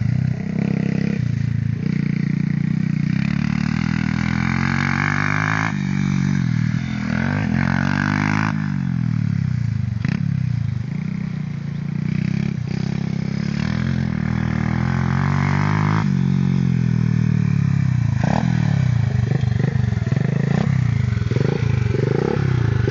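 Small motorcycle engines running and revving, the pitch rising and falling again and again as the throttle is opened and closed, choppier near the end.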